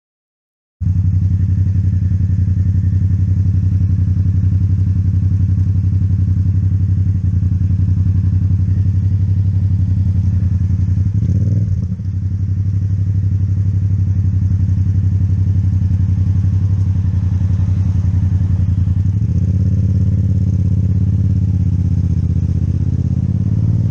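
Yamaha MT-07 parallel-twin engine with an Akrapovic exhaust running steadily under way, with a brief dip in its note near the middle, like a gear change. Over the last few seconds its pitch sinks as it slows, and the sound starts and stops abruptly.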